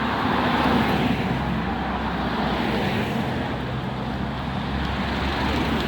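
Steady road-vehicle noise: a low engine hum under an even rushing sound, with no clear events.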